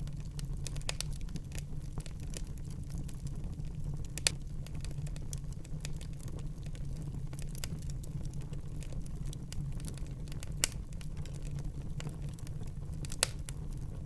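Wood fire burning in a fireplace: a steady low rumble of flames under constant small crackles, with three louder pops, about four seconds in, near eleven seconds and near thirteen seconds.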